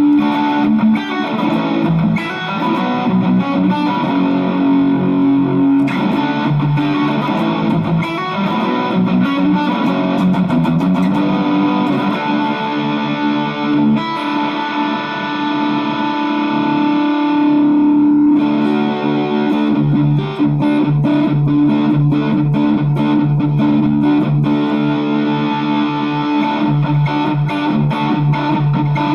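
Electric guitar played through distortion, fitted with a Duncan-style 102J treble-bleed circuit on the volume pot and an Orange Drop 223J tone capacitor. It plays riffs and a long held chord, then a steady rhythmic part on low notes from about two-thirds in.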